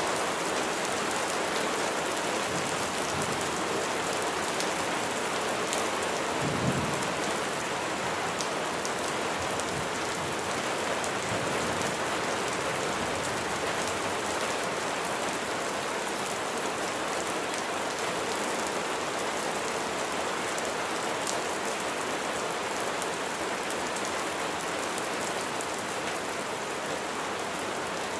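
Steady rain falling on a surface, with scattered individual drops ticking through it. A brief low rumble rises about a quarter of the way in.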